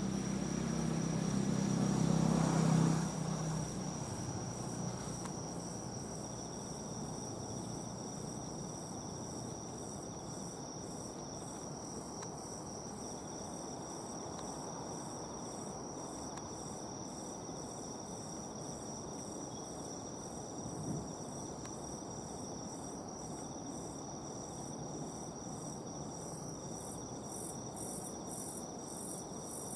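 Night insects, such as crickets, chirping steadily in a high, continuous trill, with a regular pulsing chirp above it that grows stronger near the end. A low rumble fills the first three seconds and stops suddenly, and a faint low thump comes about two-thirds of the way through.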